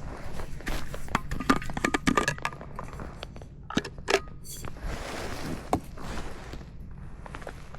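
Irregular clicks, knocks and rustling of small objects being handled, with a few sharper knocks in the middle.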